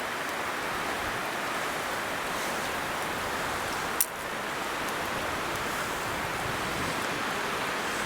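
Steady hiss of storm precipitation falling, with one sharp click about four seconds in.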